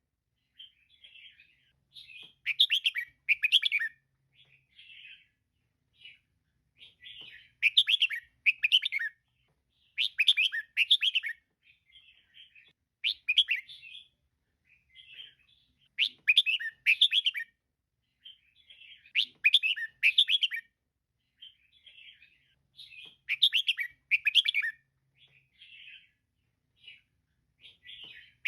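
Female red-whiskered bulbul calling in short, quick chattering phrases. Louder bursts come about every three seconds, with softer chirps between them.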